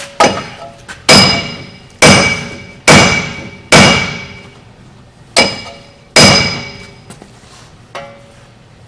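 A big hammer striking the seized steel wheel hub assembly of a pickup truck, seven hard blows about a second apart with a pause after the fifth, then a lighter one near the end. Each blow rings metallically and dies away: the hub is stuck fast and is being driven out by force.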